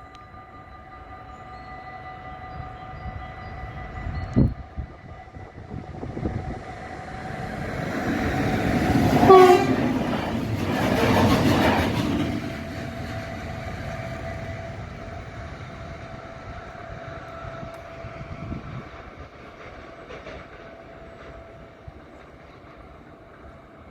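Level-crossing bells ringing steadily. About four seconds in there is a sharp knock. Then a DB Cargo freight train hauled by a class 189 electric locomotive passes, at its loudest around the middle, with a horn note that falls in pitch as it goes by; it fades away afterwards while a steady tone carries on.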